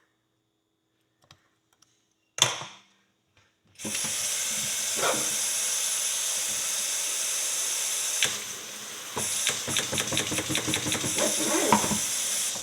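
Sink tap running, a steady hiss of water that starts a few seconds in and stops suddenly at the end. Over its last few seconds come rapid irregular clicks, as of metal being scraped under the stream, and there is a single knock before the water starts.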